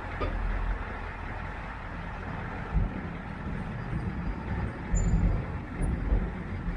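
Engine of a compact machine running steadily under work, with a few heavier low thumps.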